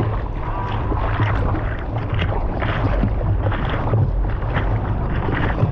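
Choppy sea water sloshing and splashing around the microphone, with a heavy low rumble of wind and water noise throughout.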